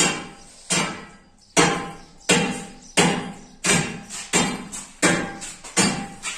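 Hammer striking steadily, about nine blows roughly 0.7 s apart, each with a short ring.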